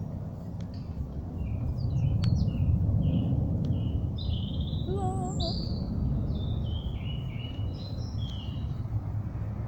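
Several small birds singing, with many short chirping and whistled notes, over a steady low rumble that swells in the middle.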